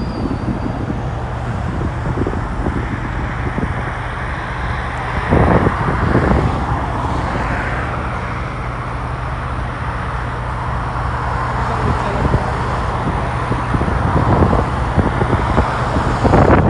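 Wind buffeting the microphone over steady road-traffic noise, with a couple of louder gusts about five and six seconds in.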